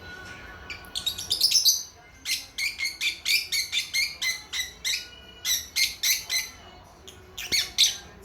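Young lovebirds chirping: a quick flurry of sharp, high chirps about a second in, then a steady run of about three chirps a second, and another quick flurry near the end.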